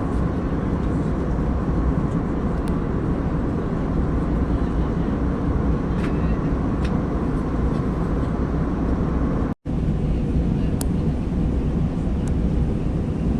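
Steady airliner cabin noise in flight, a dense low rumble and rush, with a few faint clicks scattered through it. It cuts out abruptly for a split second about two-thirds of the way through.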